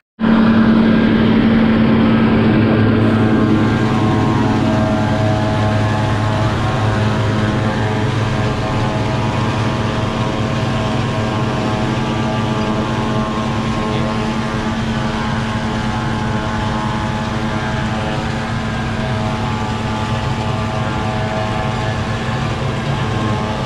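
Tractor engine running steadily at constant speed, a loud, even drone.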